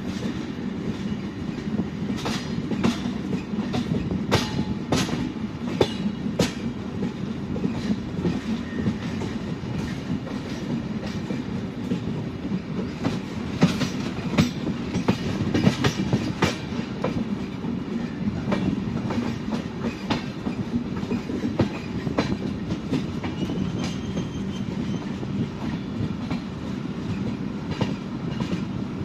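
Express train coaches running on the rails, heard from the coach doorway: a steady rumble of the running gear, with sharp wheel clicks over rail joints and points that come in clusters, twice densely.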